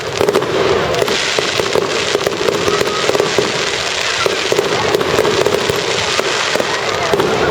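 Fireworks going off in a dense, continuous barrage of crackling pops and small bangs.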